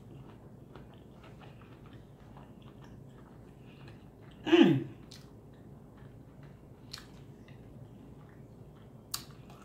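Close-up chewing of fried battered food, faint, with many small wet mouth clicks. About halfway through, the eater gives one short hum that falls in pitch.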